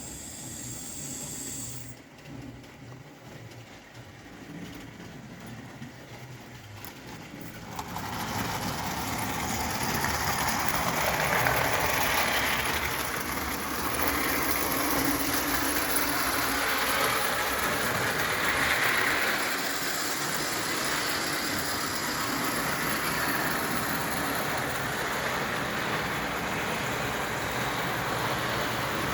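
Märklin live-steam 0 gauge tank locomotive hissing steam, quieter at first, then louder and fuller about eight seconds in and holding steady.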